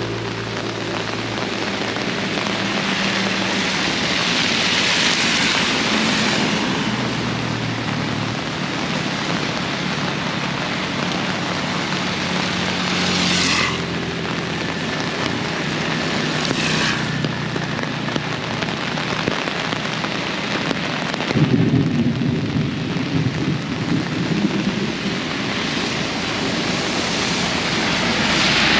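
Heavy rain falling steadily, with vehicles swishing past on the wet road several times. A louder low rumble comes about two-thirds of the way in.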